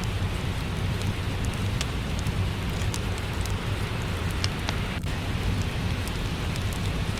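Steady rain mixed with a crackling wood fire: a constant rushing with a low rumble underneath, dotted with scattered sharp crackles.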